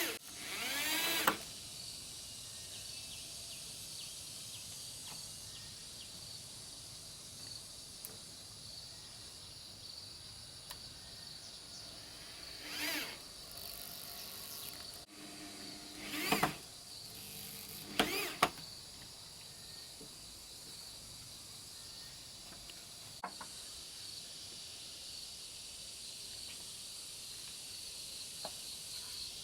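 Steady high-pitched insect buzz with a faint continuous tone, broken by a few short louder sounds about a second in and again around the middle.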